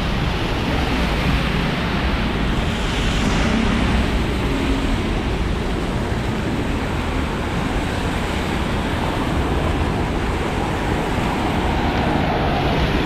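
Rainstorm rain falling on a city street: a steady, even hiss.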